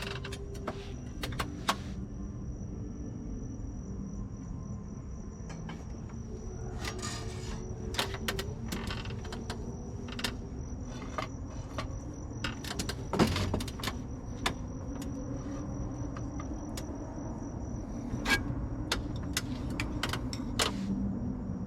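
Wood bonfire crackling, with irregular sharp pops and snaps over a low steady rumble. A thin, steady high-pitched tone runs underneath.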